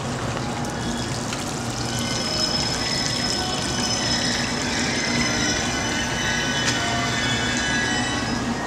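Station ambience under a train shed: a steady low hum and several faint, steady high whines from an electric train standing at the platform, with water trickling in a fountain basin.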